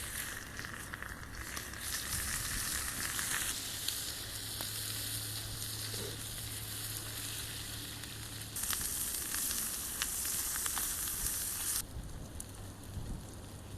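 Sizzling hiss at a campfire, in two long stretches that start and stop abruptly, with a low steady hum between them.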